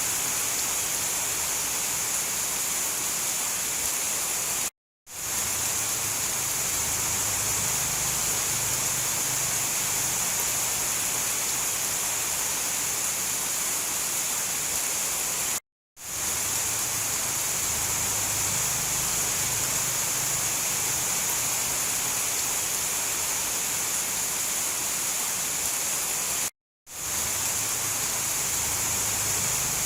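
Steady, dense hiss of heavy rain falling. It cuts out completely for a split second three times, about every eleven seconds, where the looped recording joins.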